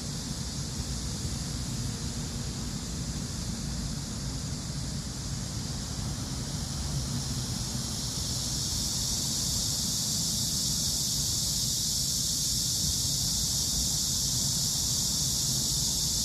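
Cicadas singing in a steady, unbroken high buzz that grows louder about eight seconds in, over a low rumble of wind on the microphone.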